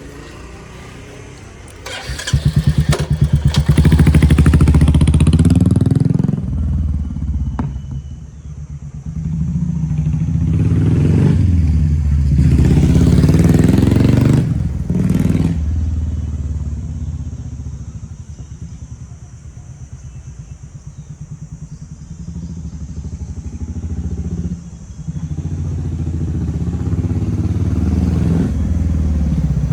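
Royal Enfield Meteor 350's single-cylinder J-series engine running through a Dolphin-style aftermarket silencer, with a deep, bassy thump. The engine note swells and falls away several times, loudest about four and thirteen seconds in.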